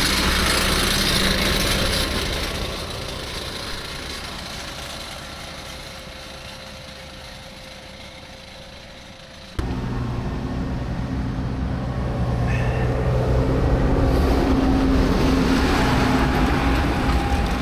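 Vehicles on a road. One passes and fades away. After a sudden cut about halfway through, a tractor's diesel engine runs steadily and grows louder as it approaches.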